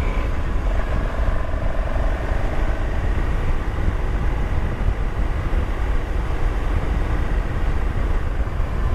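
Motorcycle on the move: heavy wind rumble on the microphone with the engine running steadily underneath.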